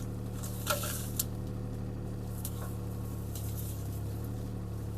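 CAT 303C CR mini excavator's diesel engine running steadily, with a short crackle and a sharp click about a second in.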